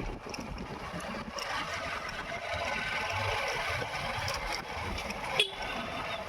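Steady rushing noise of a motorcycle ride on a wet road: wind and tyre hiss. Near the end comes a brief sharp sound that drops quickly in pitch.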